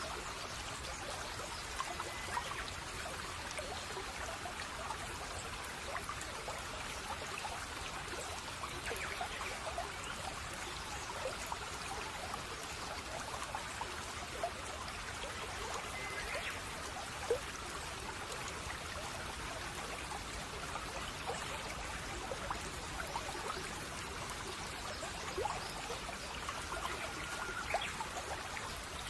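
A shallow babbling brook, water trickling and bubbling over stones in a steady, even flow.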